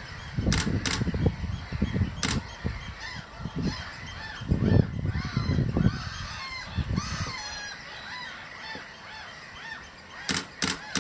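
Wild birds calling across a reed-bed marsh, many short calls overlapping, with gusts of wind buffeting the microphone and a few sharp clicks.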